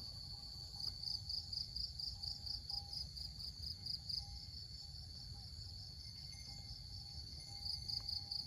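Insects chirping in the paddy field: a steady, high-pitched pulsing trill of about five pulses a second, with a fainter, lower tone coming and going beneath it.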